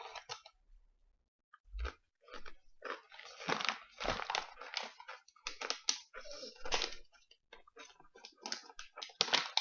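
Someone chewing crunchy baked sweet potato fries: a run of irregular crunches.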